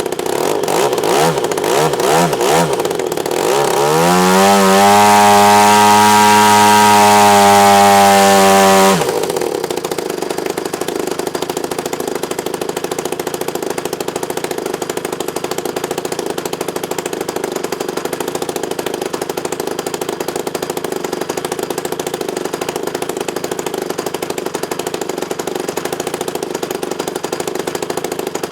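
Two-stroke Husqvarna chainsaw engine, converted to electronic ignition and turning a 22 x 13 model-aircraft propeller, blipped a few times, then run up to full throttle and held for about five seconds. It is throttled back suddenly to a steady idle, which continues to the end.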